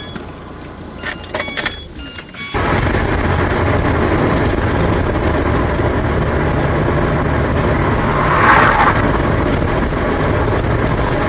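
Steady engine and road noise of a moving vehicle. It steps up suddenly and sharply about two and a half seconds in, and holds loud and even, with a brief louder rush about eight and a half seconds in.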